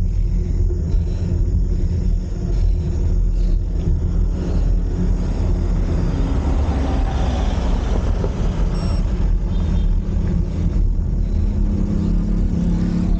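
A steady low rumble of wind and road noise on a bicycle-mounted camera's microphone while riding, with a faint steady hum joining near the end.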